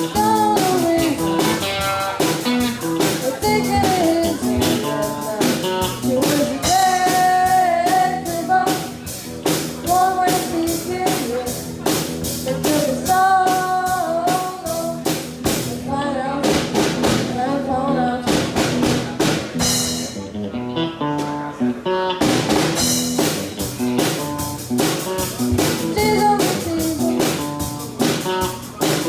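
Live rock band playing: electric guitar, drum kit and a singing voice.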